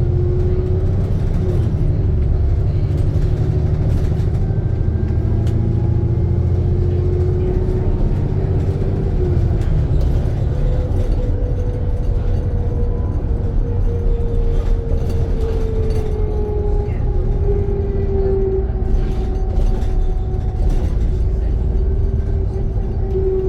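Alexander Dennis Trident II Enviro400 double-decker bus driving: a deep engine and road rumble with a whine that slides slowly up and down in pitch, and scattered short rattles and knocks.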